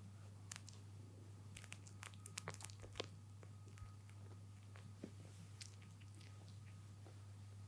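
Kittens suckling in their sleep: faint, small wet clicking sucks, with a quick run of them about two seconds in, over a low steady hum.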